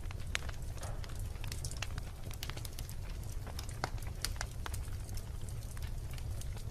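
Wood logs burning in a fireplace: many sharp, irregular crackles and pops over a steady low rumble of the flames.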